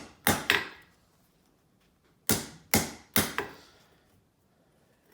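Blacksmith's hammer striking hot coil-spring steel on an anvil, two blows near the start and three more about two seconds later, each with a short ring, roughing out the profile of a hand fuller's working end.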